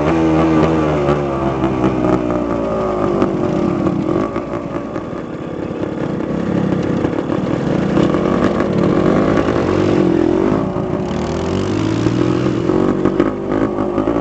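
Dirt bike engine revving up and down, its pitch rising and falling repeatedly.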